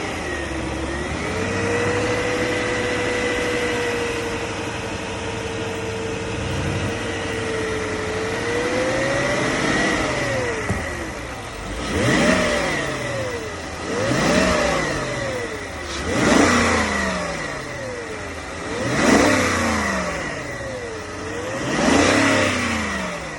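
2002 BMW 540i's 4.4-litre V8 being revved while stationary. It is held steady at raised revs for several seconds, climbs and drops back, then is blipped five times in quick rises and falls.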